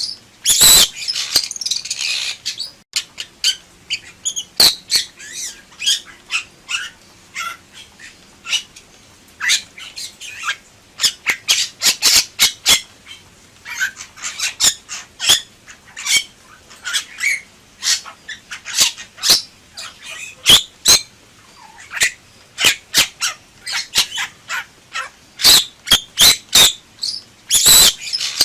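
Bali myna singing in full voice: a rapid, loud run of harsh, sharp squawks and clicking calls, with short whistled notes between them.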